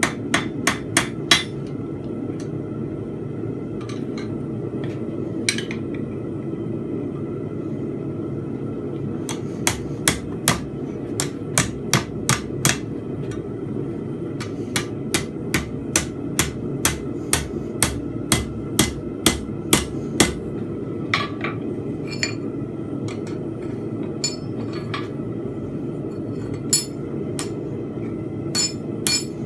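Blacksmith's hammer striking steel bar stock on an anvil while forging tapered fence pegs: a few blows at first, then quick runs of ringing strikes with short pauses, thinning out near the end. A steady low rushing noise runs underneath.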